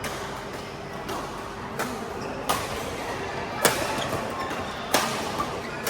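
Badminton rackets striking a shuttlecock in a rally, a sharp crack about every second, the later hits the loudest, in a reverberant hall.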